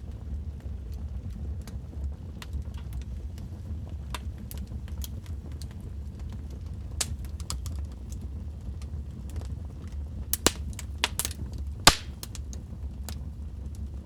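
Wood fire in a fireplace crackling: a steady low rumble of flames under scattered sharp pops and snaps. A run of louder pops comes about two-thirds of the way in, the loudest shortly before the end.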